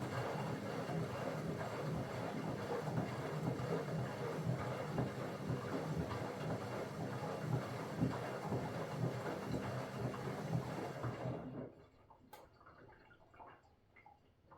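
Bauknecht WA PURE ST 14 FLD front-loading washing machine turning its drum during the steam self-cleaning program: a steady motor hum with a rumbling turn. It stops about three-quarters of the way through, leaving a quieter pause with a few faint clicks before the drum reverses.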